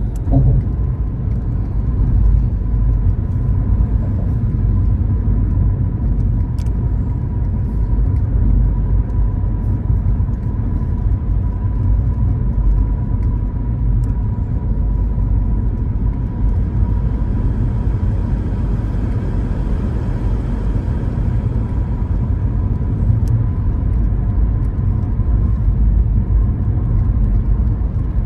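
Car driving along the road with a steady low rumble of engine and road noise, and a faint steady whine throughout.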